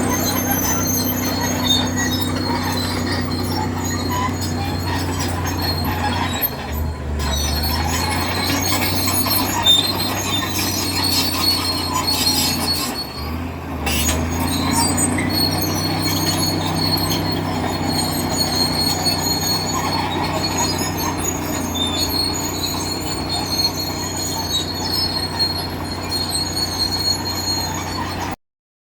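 A heavy vehicle's engine running steadily, with high thin metallic squeals and rattles over it. The engine dips briefly twice, about a third and about halfway through. The sound cuts off suddenly just before the end.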